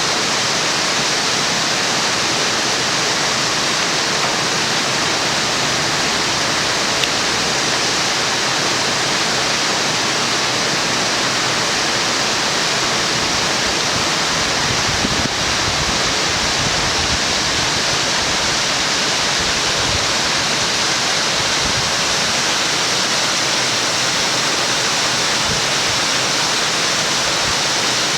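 Loud, steady rush of water pouring down a mountain waterfall.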